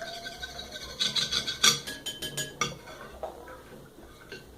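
Spoon scraping and clinking against a bowl as clear glue is stirred for slime, with a busy run of scrapes and clicks in the middle that dies down to faint rubbing toward the end.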